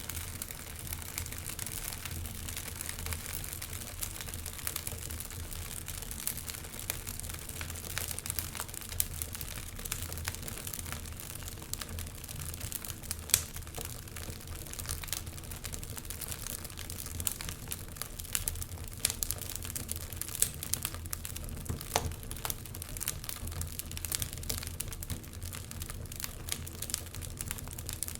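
Wood fire burning in a fireplace: a steady hiss with dense irregular crackling and frequent sharp pops from the burning logs, a louder pop about thirteen seconds in.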